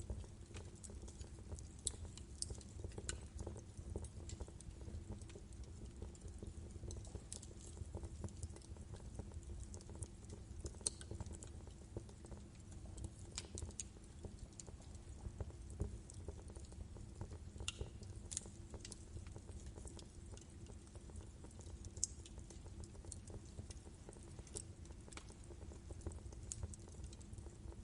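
Wood fire crackling in a fireplace: a steady low rumble of burning logs with irregular sharp pops and snaps scattered throughout.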